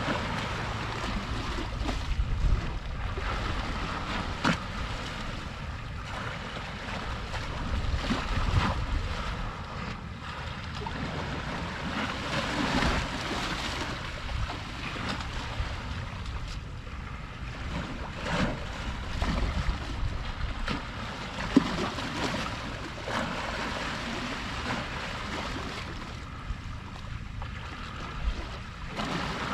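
Small sea waves washing and lapping, swelling and ebbing every few seconds, with gusts of wind rumbling on the microphone.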